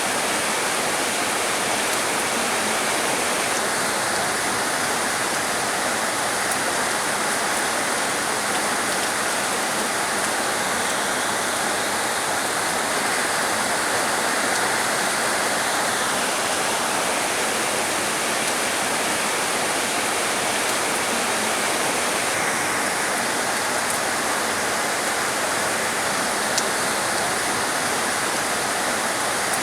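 Heavy rain falling in a steady, dense hiss, with one sharper tap near the end.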